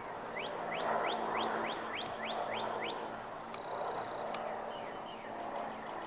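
A songbird singing a run of about eight quick rising notes, roughly three a second, followed by a few shorter chirps and one brief steady whistle, over a low steady background hum.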